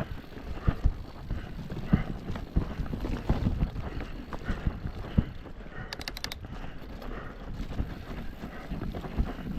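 Mountain bike rolling over a rough forest trail, tyres and frame knocking and rattling unevenly over roots and rocks, with a quick run of sharp clicks about six seconds in.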